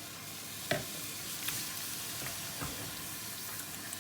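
Chicken strips in spice paste sizzling in a frying pan as chicken stock is stirred in, with a steady hiss. A utensil knocks sharply against the pan less than a second in, then more lightly a couple of times.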